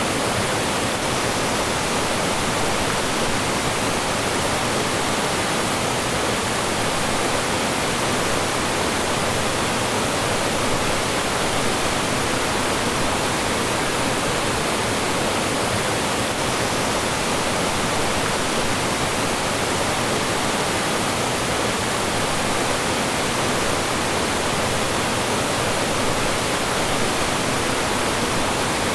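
A mountain stream rushing and splashing over rocks and small falls: a steady, full, even rush of water with no breaks.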